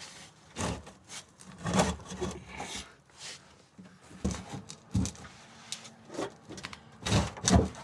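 Irregular knocks, bumps and scraping as the old fuel tank is shifted and wiggled forward against the car's underbody, with louder knocks near the end.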